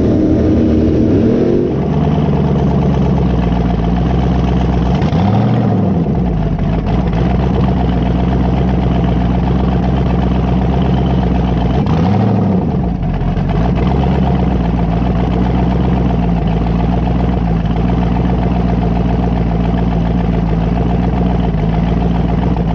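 Twin-turbo 5.3 LS V8 idling steadily, with two brief throttle blips, about five seconds in and again about twelve seconds in.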